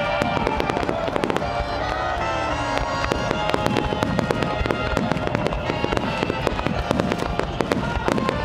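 Aerial firework shells bursting in quick succession, a dense string of sharp bangs that grows thicker after about three seconds. Music with held tones plays underneath.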